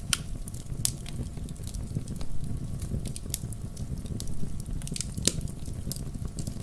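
Wood campfire burning: a steady low rumble of the flames with sharp, irregular crackles and pops from the burning wood.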